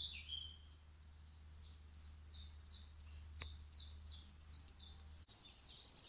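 A songbird singing a run of about a dozen short, high notes, evenly spaced at about three a second, each dipping slightly in pitch, starting about a second and a half in.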